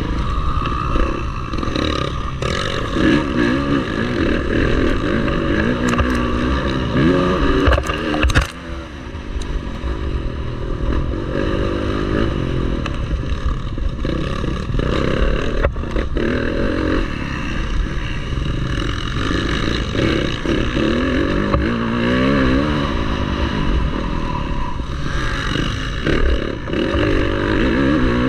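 Motocross bike engine racing, its pitch rising and falling again and again as the throttle is opened and shut through the corners and jumps. A sharp knock comes about eight seconds in.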